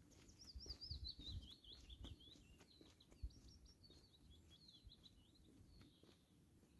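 Faint songbird singing: a quick warbling phrase, then scattered high notes, with a few soft footsteps near the start.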